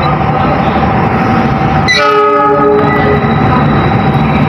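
A train running past with steady loud rail noise, and a short blast of its horn about two seconds in, lasting under a second.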